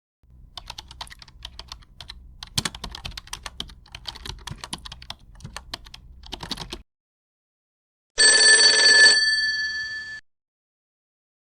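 Rapid computer keyboard typing, irregular key clicks for about six and a half seconds, then after a short pause a single doorbell ding about 8 s in, its tones ringing out over about two seconds.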